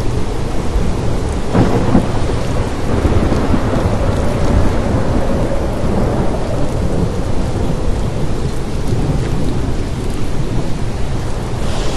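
Steady heavy rain with a deep rumble of thunder, a sharp crack about a second and a half in, then a long low roll that fades over the next few seconds.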